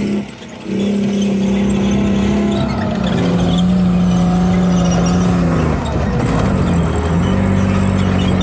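A large vehicle engine running hard and revving. Its pitch holds steady, drops slightly about three seconds in, dips again near seven seconds, and then picks back up.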